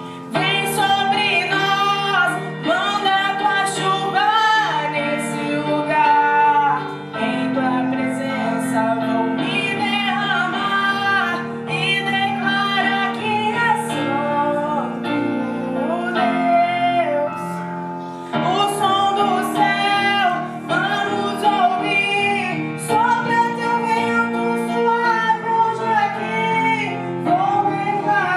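Female voice singing a Portuguese-language gospel song in phrases over a sustained instrumental accompaniment.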